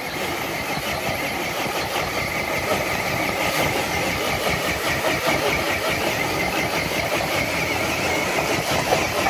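RC crawler truck's electric motor and gear train whining steadily under load as it drags a weighted sled, with a fast gritty scraping from the tires and sled on the track.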